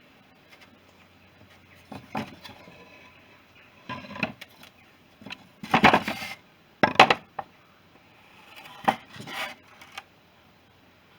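Metal engine parts and tools clinking and clattering as they are handled and set down, in about half a dozen separate bursts, the loudest near the middle.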